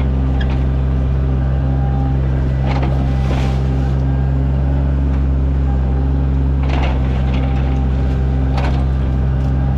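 Sany mini excavator's diesel engine running at a steady speed, with a few brief clatters about three, seven and nine seconds in.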